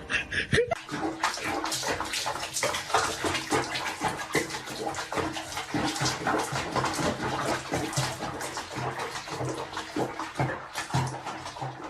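Water splashing, many quick irregular splashes one after another.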